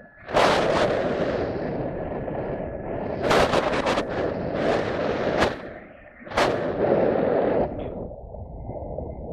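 Strong wind buffeting the microphone in loud gusts, with several sharper blasts about a second apart in the middle, easing off near the end.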